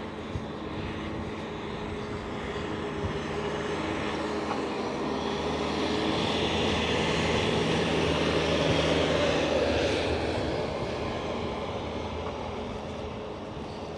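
Airplane flying over, its engine sound swelling for several seconds to a peak in the middle, then fading away.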